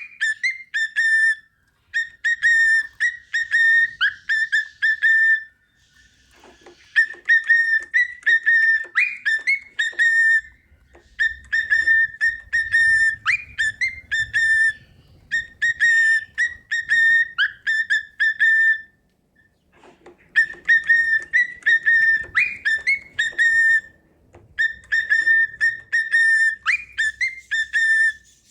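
Cockatiel whistling its song: the same short whistled phrase repeated over and over, with brief pauses between runs. Steady held notes are broken by quick upward chirps.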